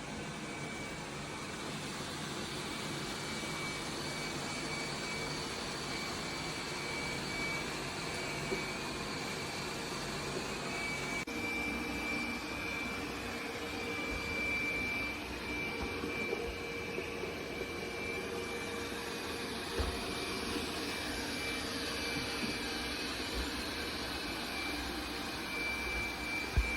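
AIRROBO P30 robot vacuum running: a steady whir from its suction motor with a high, constant whine over it, and an occasional light knock as it works across the floor.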